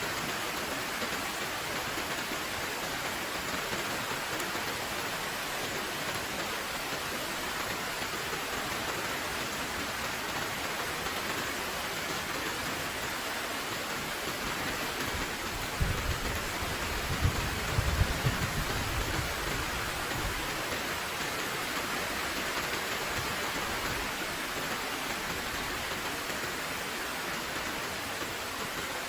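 Heavy rain falling steadily, an even hiss. About halfway through comes a few seconds of low, uneven rumbling.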